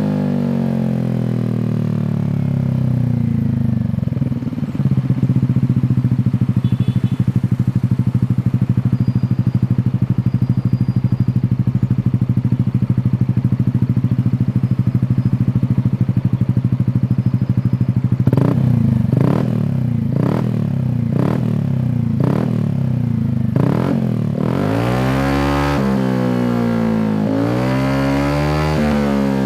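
150cc automatic scooter engine running through an aftermarket racing exhaust. The revs drop to a steady idle, then the throttle is blipped several times in quick succession about 18 s in, and the engine is revved up and back down twice near the end.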